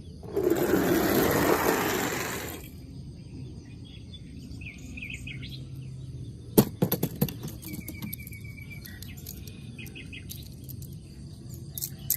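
Small birds chirping in short calls, with a rapid trill about eight seconds in. Near the start a loud rushing noise lasts about two seconds, and a quick run of clicks and knocks comes about six and a half seconds in.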